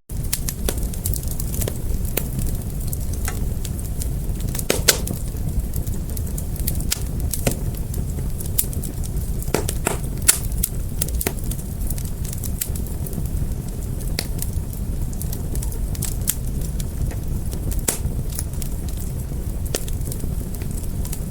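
Wood fire crackling: a steady low rumble with irregular sharp pops and snaps. Two louder pops come about five and ten seconds in.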